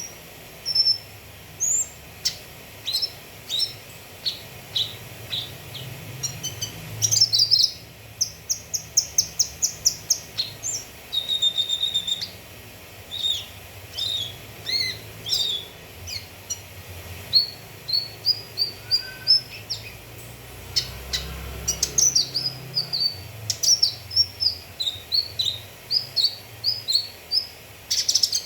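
Cucak kinoi singing a fast, varied song of short, sharp chirps and whistled notes, some in quick runs of repeated notes, the kind of song played to lure caged birds of its kind into singing.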